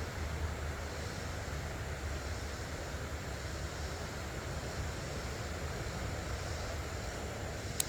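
Steady rush of flowing creek water, picked up by a phone's built-in microphone, with a single sharp click near the end.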